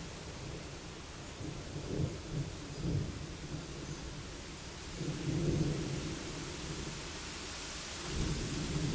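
Steady rain with thunder rumbling low: a few short rolls about two to three seconds in, a longer, louder roll about five seconds in, and another beginning near the end.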